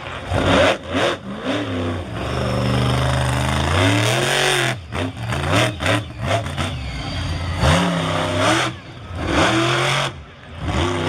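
Monster truck engine revving hard and dropping back again and again. It is held at high revs for a couple of seconds, then comes a series of quick rises and falls in pitch.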